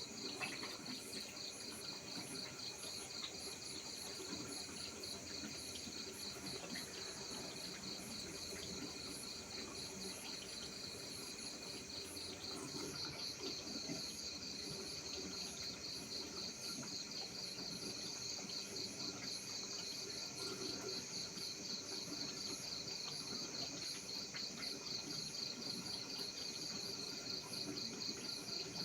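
Insects chirping in a steady, even pulsing rhythm, with a second, higher-pitched chirp pulsing alongside.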